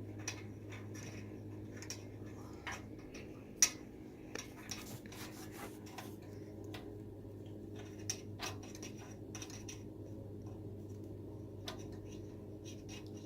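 Scattered metal clicks and scraping of a socket tool as a long spark plug is unscrewed from a small engine's cylinder head, with one sharper click a few seconds in.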